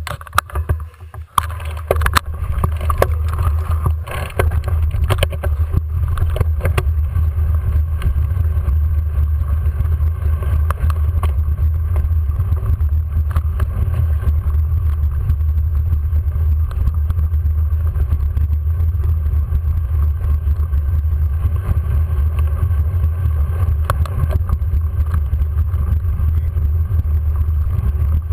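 Ride noise from a camera carried on a bicycle climbing a steep hill: a steady low rumble of vibration and wind on the microphone, with scattered clicks and knocks over the first several seconds.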